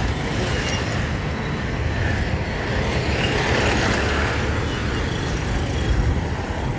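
Road traffic noise: a steady low rumble of passing vehicles, swelling briefly about three seconds in as one goes by.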